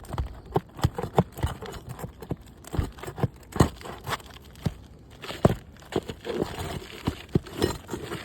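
Asphalt roof shingles being pried up and their roofing nails pulled with a pry tool: irregular sharp clicks and knocks, several a second, over crackling and scraping.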